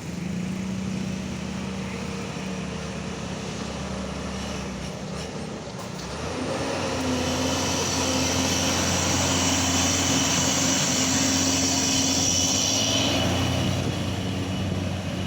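Heavy tronton truck engine running with a steady low hum, then growing louder and higher in pitch about six seconds in, with a hiss over it, and easing off near the end.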